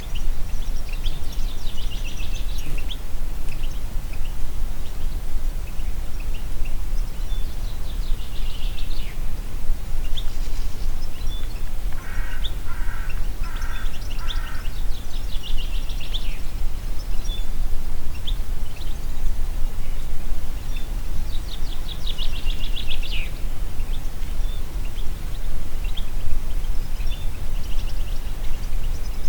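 Wind through forest trees as a steady low rumble, with songbirds singing quick high trills every few seconds. About halfway through, a lower call of four short even notes repeats.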